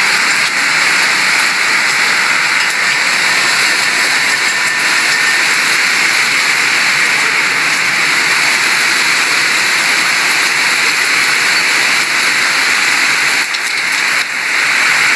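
Heavy hurricane rain pouring steadily, a dense even hiss with no let-up.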